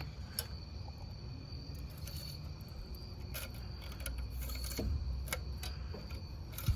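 Insects chirping in a steady high-pitched trill over a low background rumble, with a few light clicks.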